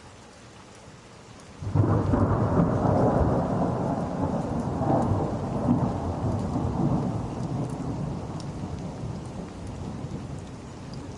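A peal of thunder breaks in suddenly about two seconds in, then rumbles on and slowly fades, over steady rain.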